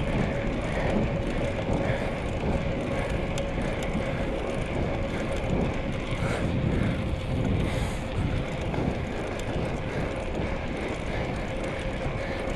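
Bicycle ride noise: wind over the microphone and tyres rolling on the road, with a steady hum throughout.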